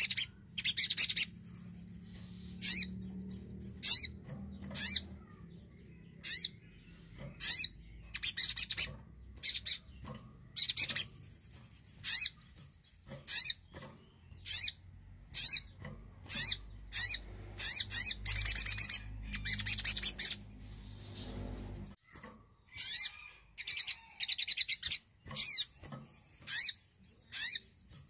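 A sogon (spiderhunter) calling over and over: short, sharp, high notes about once a second, broken by a few longer rapid chattering trills.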